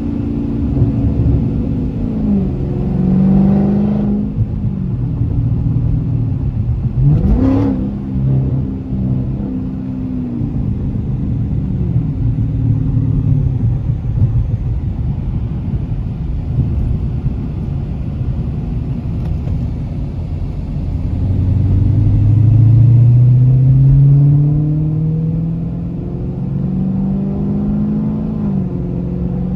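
Dodge Challenger Scat Pack's 392 V8 under way, its engine note rising and falling with the throttle and gear changes. There is a quick sharp rev about seven seconds in, and a long climbing pull from about twenty seconds in, the loudest part, followed by further shifts.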